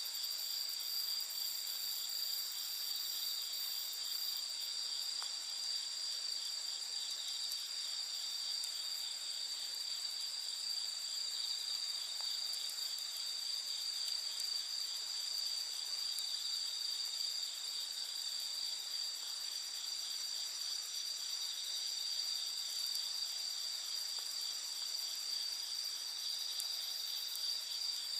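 A steady chorus of night insects, several high trills at different pitches running together without a break, with a few faint crackles from a wood campfire.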